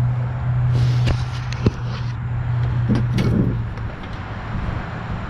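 A motor running steadily with a low hum, with a few sharp metallic clicks over it; the hum fades out about four seconds in.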